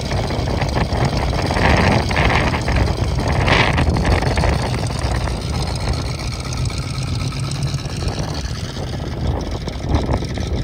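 The 1960 Corvette's fuel-injected 283 V8 running with a steady low rumble, with a couple of brief louder spells in the first few seconds.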